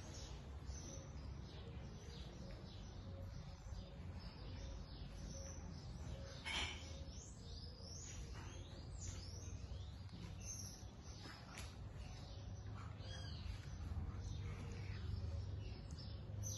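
Faint bird chirping: many short, quick falling chirps, over a low steady hum, with one brief knock about six and a half seconds in.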